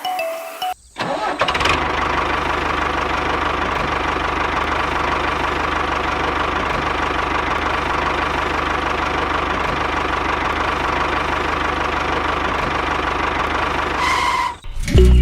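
Small motor of a DIY miniature tractor running steadily with a constant whine. It starts about a second and a half in and stops near the end.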